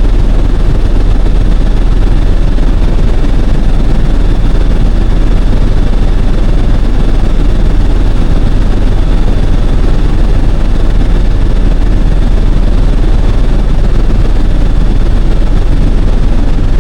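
Helicopter engine and rotor noise as heard aboard in flight: a loud, steady, deep drone with no change in pitch.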